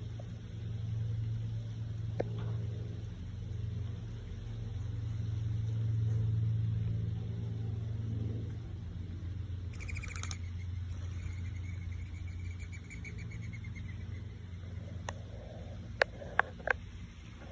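A bird calls with a short chirp about ten seconds in, and a faint thin note holds for a few seconds after it, over a steady low outdoor hum. A few sharp clicks come near the end.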